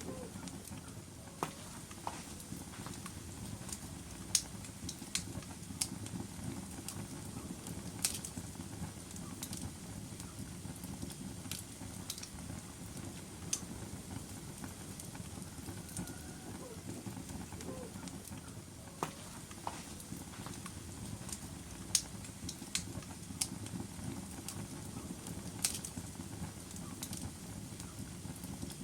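Log fire burning in a fireplace: a steady low rumble of flame with irregular sharp crackles and pops from the burning wood.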